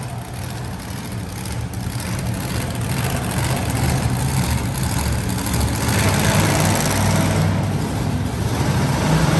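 Monster truck engine running and revving during a run, growing steadily louder over the first six seconds or so.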